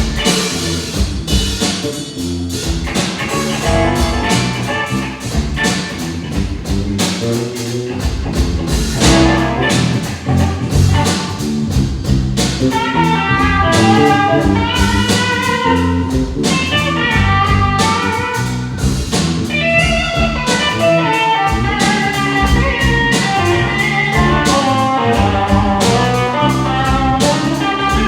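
Instrumental break of a live blues-rock band: guitar, bass and drum kit playing with no vocals, and a quick melodic guitar lead line coming in over the top about halfway through.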